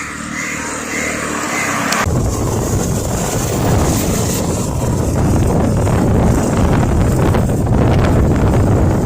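Motorcycle riding along a road, engine running under wind noise. About two seconds in, wind starts buffeting the microphone heavily and a deep rumble takes over.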